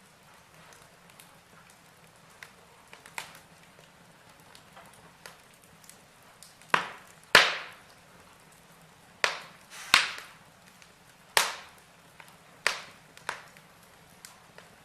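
Wood logs burning in a fireplace, crackling with scattered sharp pops and snaps. The pops are small and sparse at first, then a run of louder cracks starts about halfway through, the loudest a little past the middle.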